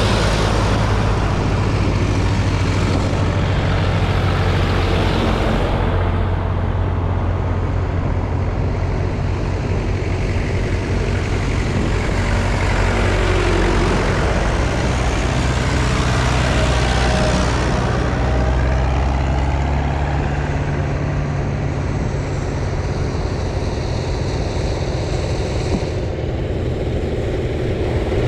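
Diesel tractor engines running as tractors drive past one after another, with road and tyre noise swelling and fading. The engine note changes every several seconds as a different tractor takes over.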